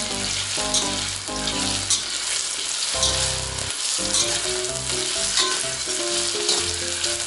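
Potato slices sizzling as they fry in hot oil in a stainless steel wok, stirred with a metal spatula that scrapes against the pan now and then.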